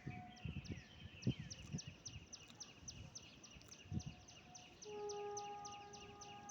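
A bird calling in a fast, even run of short high chirps, about five a second, with a few low thumps in the first seconds. About five seconds in, a steady horn-like tone starts.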